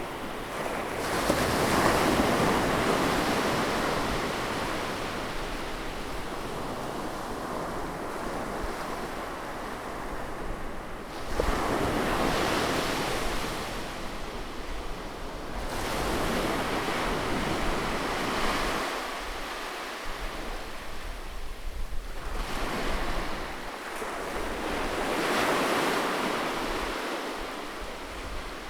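Ocean surf breaking on a beach: rushing waves that swell and fade again, about four surges, each lasting several seconds.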